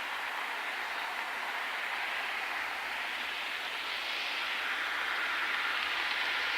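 Train noise that grows slowly louder, heard through heavy wind buffeting the microphone.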